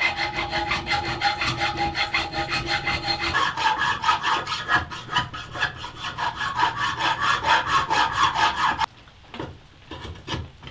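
Rapid back-and-forth strokes of hand filing, several a second, with a ringing squeal from the steel that jumps higher about three seconds in. The strokes stop abruptly near the end, leaving a few faint knocks.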